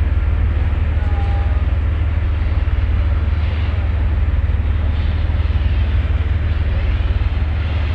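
Steady low rumble on board a ferry under way, with no break or change.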